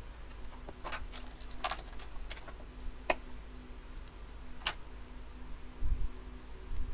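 Scattered light clicks and taps of small hand tools against an iPhone XS Max as it is pried open, about six separate clicks over a faint steady hum.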